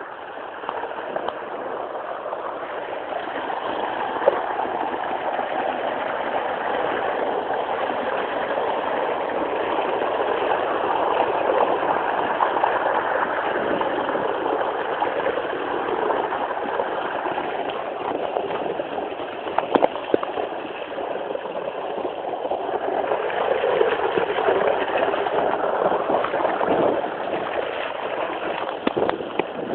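Steady rushing of rain and running water, with a few short sharp knocks.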